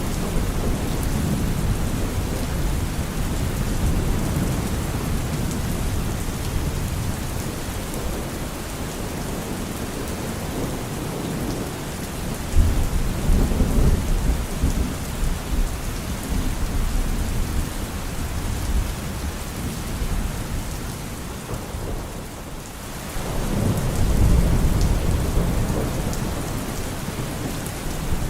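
Steady heavy rain with thunder rumbling twice, first about halfway through and again near the end, each rumble a deep swell that rises suddenly and fades over a few seconds.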